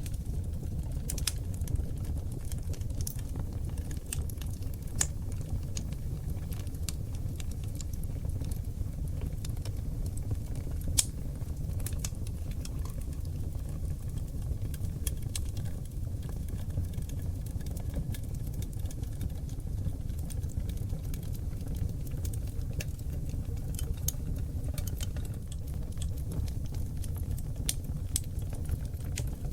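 Wood fire burning on seasoned oak logs in a fireplace: a steady low rumble of flames with scattered crackles and pops, one sharper pop about eleven seconds in.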